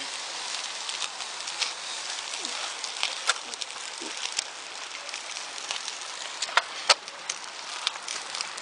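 Wood bonfire crackling: a steady hiss with irregular sharp pops, the loudest a pair about two-thirds of the way through.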